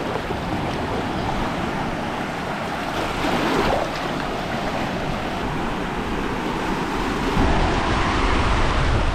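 Rough sea surf breaking and washing onto a beach, a steady rush of waves that grows deeper and louder near the end.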